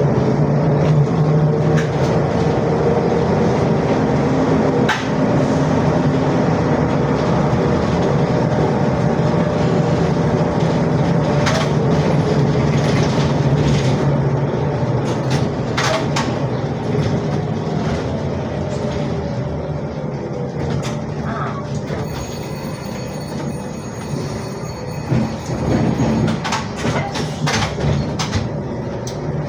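Inside a ZiU-682G trolleybus under way: its traction motor keeps up a steady hum and whine over road noise and body rattles, with scattered sharp clicks and knocks. The whine shifts in pitch with speed, with a slight dip near the end and a rise right at the close.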